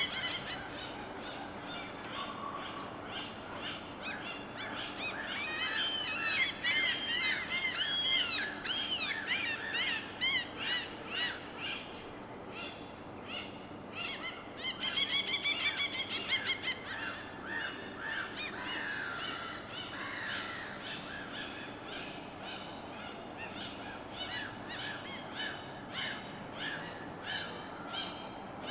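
Several birds singing and calling over a steady wash of water. A run of quick rising-and-falling whistled notes comes from about five to ten seconds in, then a fast trill near the middle, with scattered chirps after it.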